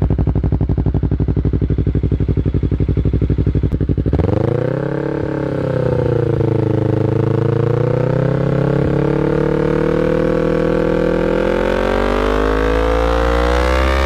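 Yamaha R3's parallel-twin engine through an aftermarket exhaust, running steadily with a pulsing note for about four seconds. It then picks up, the pitch rising, dipping briefly and climbing slowly and steadily as the bike accelerates.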